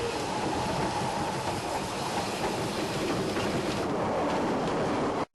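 Ffestiniog Railway narrow-gauge train running along the track, a steady rumble and rattle of wheels on rail. The sound cuts out abruptly for an instant near the end.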